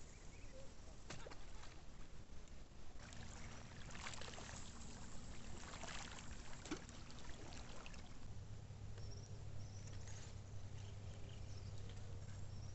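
Water splashing and trickling with a few light knocks. A low steady hum sets in about two-thirds of the way through.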